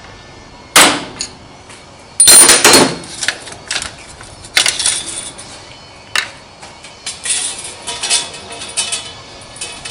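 Hammer striking a center punch to mark a hole in the steel of a lathe carriage: one sharp metallic strike about a second in, a quick run of harder strikes a second later, then lighter taps and clinks.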